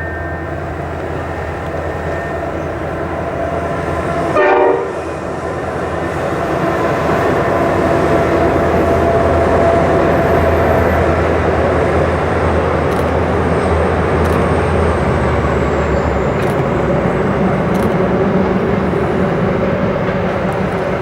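Diesel-electric locomotives hauling a loaded grain train, their engines running as the train approaches, with one short horn blast about four seconds in. The rumble of the locomotives and wagons then grows louder and stays loud.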